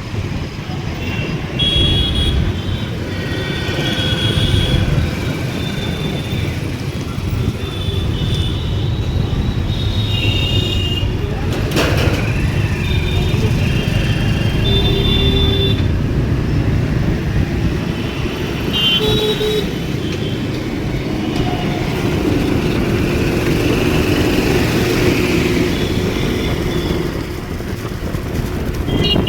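Road traffic: a steady rumble of passing vehicles, with many short high-pitched toots throughout and a sharp click about twelve seconds in.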